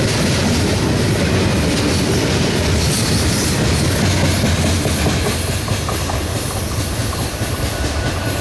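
Covered hopper cars of a CSX freight train rolling past close by: a loud, steady rumble of steel wheels on the rails with a continual rattle of knocks, easing slightly after about five seconds.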